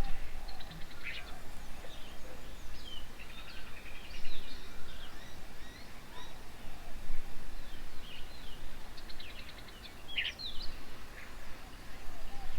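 Several birds calling at once: short chirps, slurred whistles and rapid trills overlapping, over a low steady background rumble.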